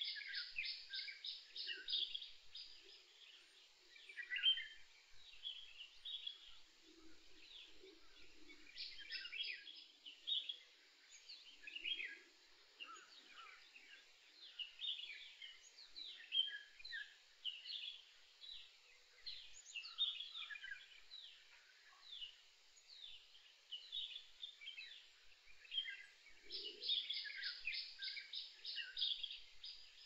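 Several wild birds singing and calling in forest, a steady mix of short high chirps and whistles. A fast run of evenly repeated high notes comes three times: at the start, about nine seconds in, and near the end. Soft lower calls come and go underneath.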